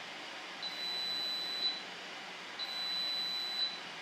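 Electronic beeper sounding a high, steady beep about a second long, twice, about two seconds apart.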